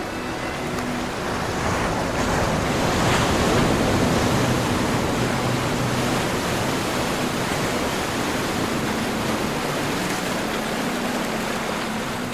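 Ocean surf: a wave swells in over the first few seconds, then a long wash slowly eases off, with faint steady low tones underneath.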